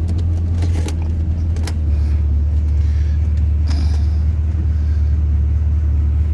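Chevrolet GM 350 (5.7 L) small-block V8 idling with a steady low drone that settles a little lower about two seconds in. A few light clicks and rattles sound over it in the first two seconds and again near four seconds.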